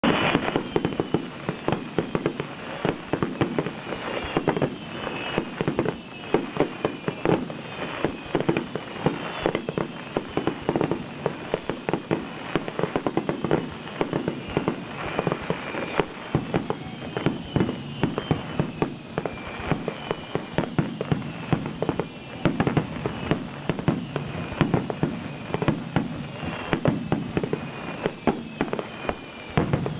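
Fireworks display: a dense, unbroken run of shell bursts, many sharp bangs overlapping and following each other every fraction of a second.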